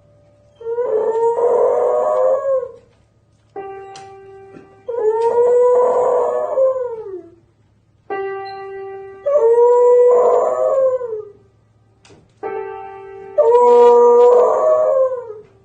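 A dog howling in long drawn-out calls, four times, each sliding down in pitch at the end. Between the howls, short steady held musical notes sound, and the dog howls back after each one.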